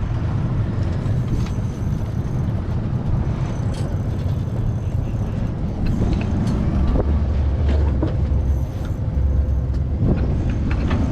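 Wind buffeting the microphone: a steady low rumble that swells louder about two-thirds of the way through.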